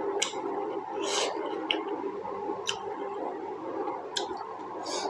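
Close-miked mouth sounds of someone eating juicy pork momos: wet chewing and lip-smacking, with sharp clicks about once or twice a second over a steady background hum.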